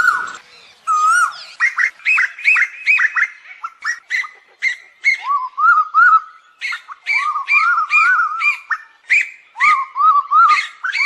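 Asian koels calling: fast, overlapping series of short notes that rise and fall in pitch, with two voices at different pitches answering each other.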